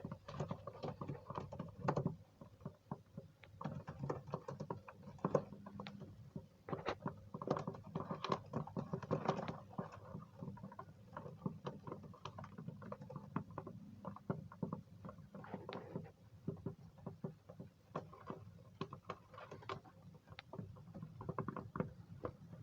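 Irregular, rapid light tapping and pattering: many short clicks at uneven intervals, over a faint low hum.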